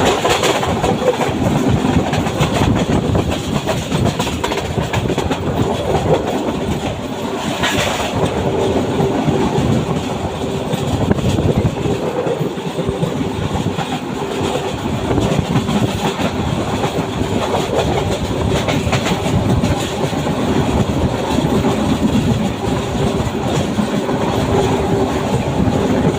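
Passenger train running, its wheels clattering over the rail joints, with a steady hum and a brief rush of noise about eight seconds in.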